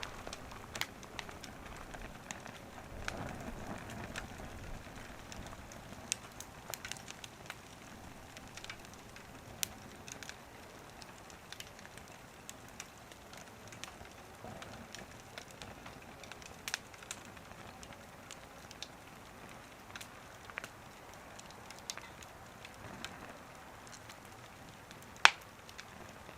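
Wood fire burning in a small wood stove, crackling with scattered sharp pops, one much louder pop near the end.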